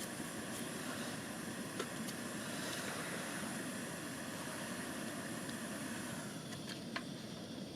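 Wood campfire burning: a steady rushing noise with a few sharp crackles.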